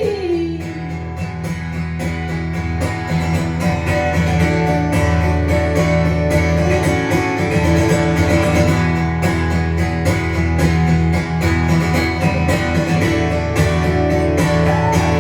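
Live rock band playing an instrumental break: strummed guitars over steady bass and drums, with no singing.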